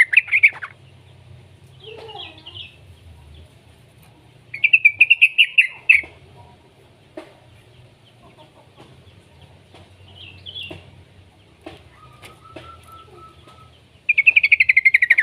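Young yellow-vented bulbul (trucukan) singing in bursts of rapid, bubbly chattering notes: once at the start, again about four and a half seconds in for a second and a half, and again near the end. Fainter short calls come in between.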